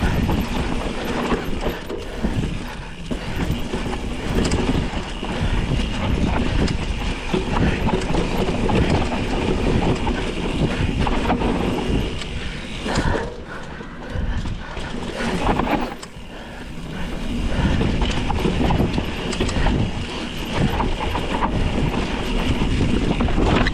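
Mountain bike rolling fast over a rough dirt trail, its frame, chain and parts rattling and clattering continuously with many small knocks.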